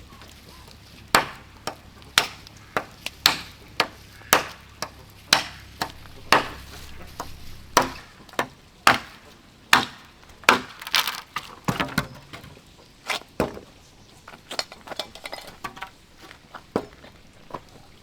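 Wood being chopped with a blade, sharp blows about once a second, then lighter, quicker and irregular strikes for the last few seconds.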